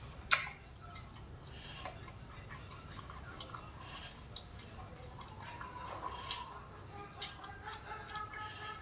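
A person chewing a mouthful of braised pork close to the microphone: scattered soft mouth clicks and smacks. One sharp utensil click on a metal tray about a third of a second in is the loudest sound.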